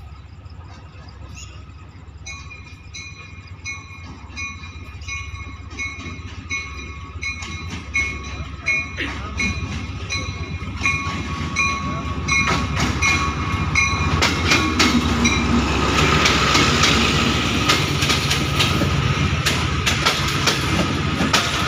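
ZCU-30 diesel-electric locomotive hauling an express train, approaching and drawing in along the platform. Its rumble builds steadily, and in the second half the wheels click over the rail joints as the coaches go by. Through the first two-thirds a short high beep repeats about three times every two seconds.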